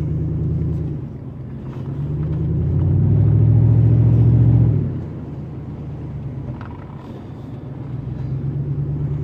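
Pickup truck's exhaust running as it drives; it gets louder from about two seconds in as the truck accelerates, drops off suddenly near five seconds, and builds again near the end.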